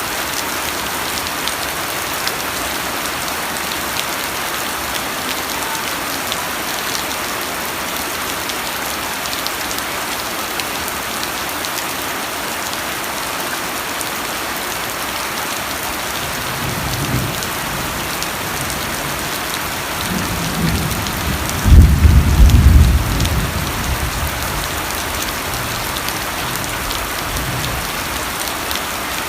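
Steady rain falling, an even hiss. Just past halfway a roll of thunder builds as a low rumble, peaks in a loud burst about three-quarters through, then rumbles away.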